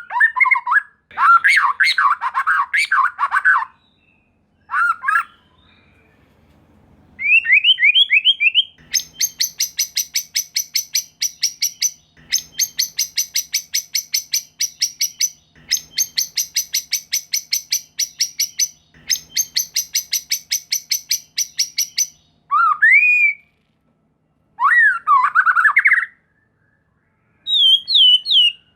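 White-rumped shama (murai batu) singing loud, agitated fighting song. Varied whistled phrases and a rising run of notes open it, then four bursts of about three seconds each of rapid repeated chattering notes, about four or five a second. Whistled phrases return near the end.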